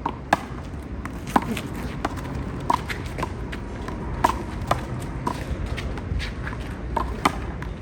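A handball rally: a small rubber ball slapped by hand and smacking off the wall, a string of sharp hits at uneven intervals, roughly one every half second to a second.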